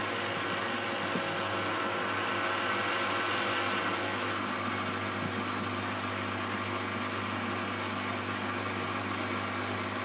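Beko WM74165W front-loading washing machine spinning: a steady, loud drum-and-motor hum with a constant low drone and a rushing whine above it.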